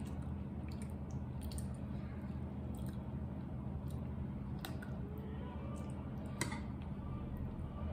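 Close-miked chewing of food, with a few sharp crunches about four and a half and six and a half seconds in, over a steady low hum.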